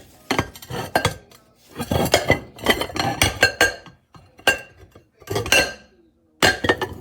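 Ceramic bowls clinking and knocking together as they are handled: clusters of sharp clinks, some leaving a brief ring.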